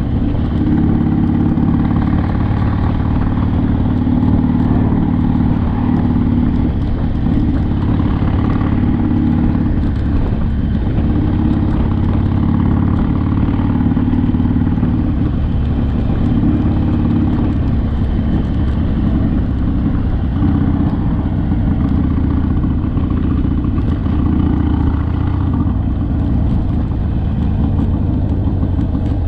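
Harley-Davidson Sportster's air-cooled V-twin engine running steadily under way, its note shifting a few times as the throttle changes.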